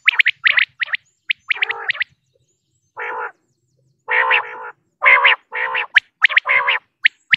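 Female common quail calling: a quick run of sharp notes, then after a short pause about five short rasping, croaky calls, with sharp notes again near the end.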